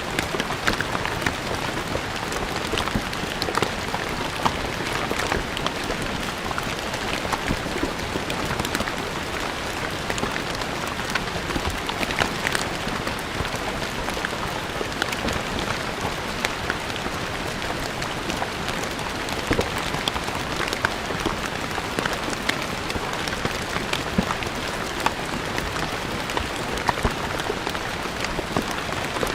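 Steady rain falling on a stone floor, a dense hiss with many individual drops ticking sharply on the hard surface.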